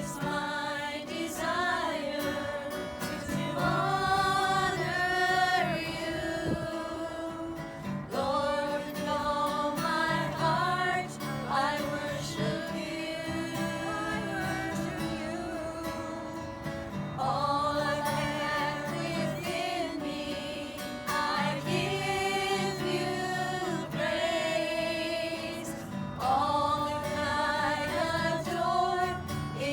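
Gospel music: a group of voices singing a slow worship song in long held phrases over instrumental accompaniment.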